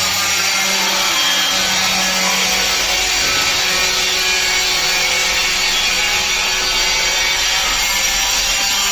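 An electric power tool working wood, likely cutting or sanding. It makes a steady, continuous noise throughout.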